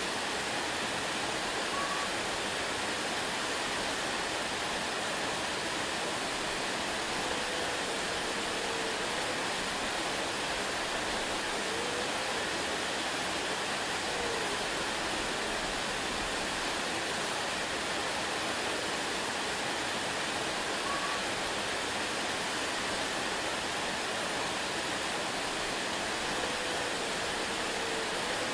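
Waterfall: a steady, even rush of falling water, with a few faint short chirps.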